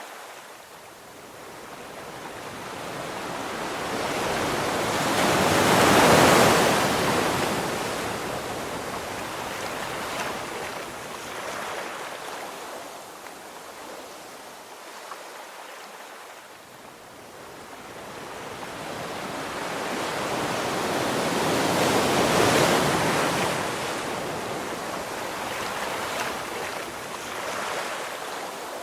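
Ocean waves breaking on a beach: the surf swells and crashes twice, about sixteen seconds apart, with a steady wash of water between the breaks.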